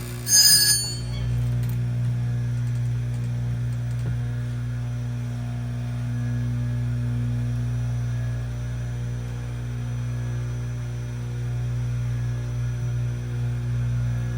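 Oregon 620-120 chain grinder's electric motor running with a steady hum. About half a second in there is one brief, loud, high metallic ring as the grinding wheel touches a chain tooth.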